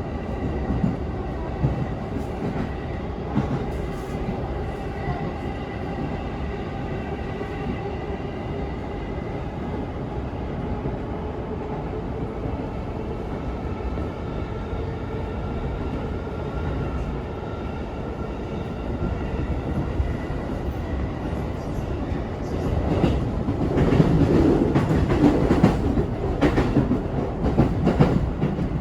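Electric train running, with a steady motor whine whose pitch creeps slightly upward midway. It gets louder near the end as wheels clack rhythmically over rail joints.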